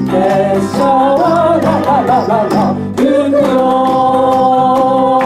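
Live Shōwa-era pop song sung by a chorus over acoustic guitar, violin, bass and cajón: a wavering melodic run in the first half, then a long held final note from about three seconds in.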